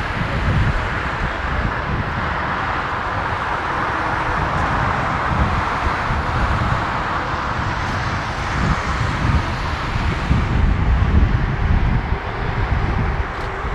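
Boeing 787-9 jet engines on landing approach, a steady rushing roar that swells a little in the middle, with wind buffeting the microphone.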